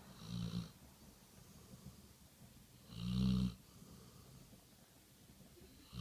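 Chocolate Labrador snoring: two snores about three seconds apart, the second louder, with quiet breathing between them.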